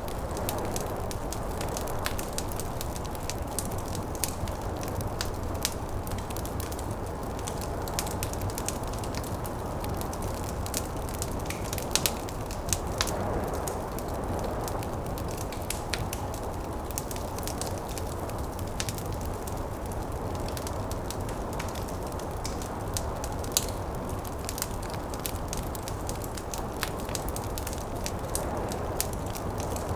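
Wood fire crackling, with frequent sharp irregular pops and snaps and a few louder cracks, over a steady low rush of snowstorm wind.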